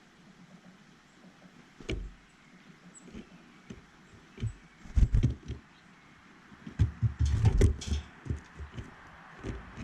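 Irregular knocks, taps and rattles of birds landing on and pecking at a feeder right against the microphone, with a few heavier thuds about two, five and seven seconds in.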